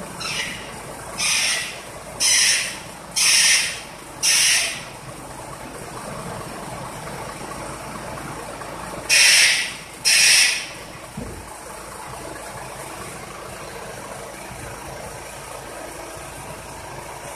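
Truck engine idling steadily, with seven short hisses of about half a second each: five in quick succession, then two more about nine seconds in.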